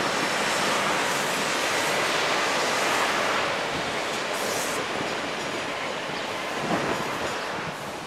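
Suburban diesel multiple-unit train rolling past below, a steady rushing rumble that eases off about halfway through as it moves away.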